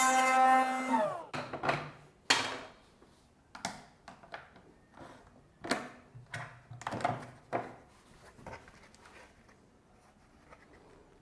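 Palm router motor winding down about a second in, its whine dropping in pitch, followed by a string of separate wooden clunks and knocks as pieces are handled and set down.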